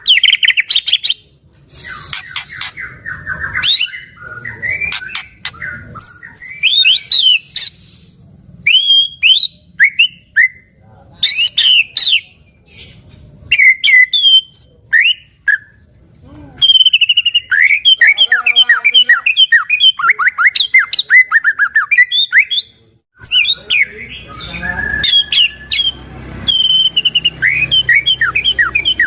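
White-rumped shama (murai batu) singing continuously in full, prolific song: loud, varied whistles, quick chirps and rapid rattling trills, with a brief break about two-thirds of the way through.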